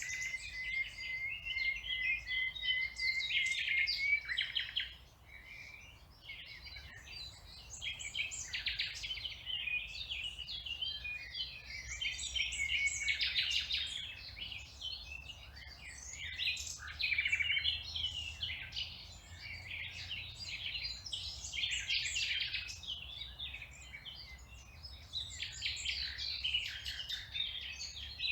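Songbirds singing: busy, overlapping chirps and trills in phrases of a few seconds, with a brief lull about five seconds in.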